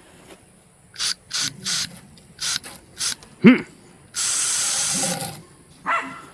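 Aerosol wasp spray hissing from the can in several short squirts, then one long spray lasting over a second, aimed at wasps nesting in a truck mirror. A brief yelp cuts in between the squirts and the long spray.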